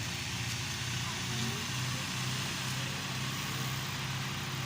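Yanmar B37 mini excavator's diesel engine running steadily under work, with a steady hiss over the engine note.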